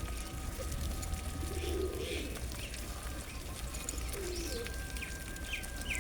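Pigeons cooing, two low coos, with short high chirps from smaller birds and a quick run of chirps near the end.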